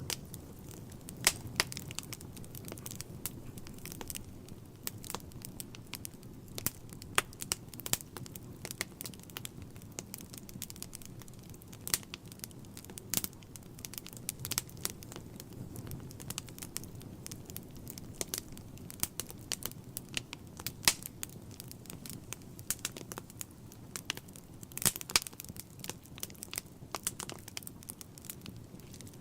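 Wood fire burning in a fireplace: a soft steady rumble of flames with frequent irregular crackles and pops from the logs, a quick cluster of pops near the end.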